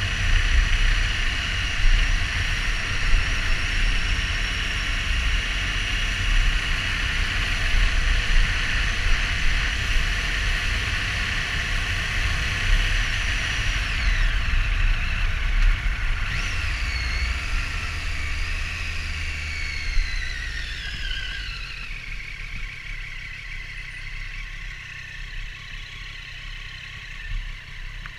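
Triumph Street Triple R's inline-three engine running under way, with heavy wind rumble on the microphone. Past the halfway point the engine pitch falls steadily as the bike slows, and the wind noise drops away near the end.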